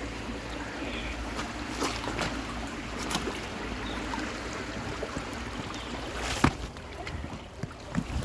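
A stream running steadily, with scattered scuffs and knocks of footsteps scrambling up a bank. A sharper knock comes about six and a half seconds in.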